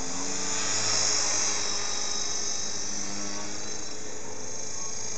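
Electric motor and propeller of a radio-controlled float plane whining steadily in flight. The pitch shifts slightly near the start and the sound swells briefly about a second in.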